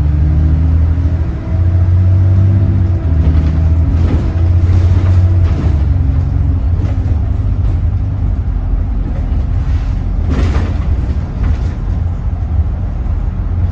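Bus's diesel engine running under way, its low drone stepping in pitch several times, with short knocks and rattles, the loudest about ten seconds in.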